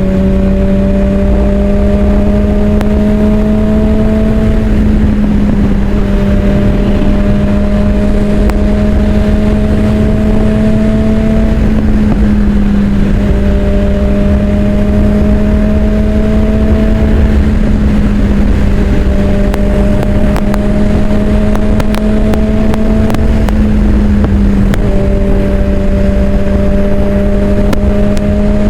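Suzuki GSX-R600 inline-four engine running at steady high revs while riding. Its pitch creeps up slightly and dips back every few seconds, over a constant low wind rumble.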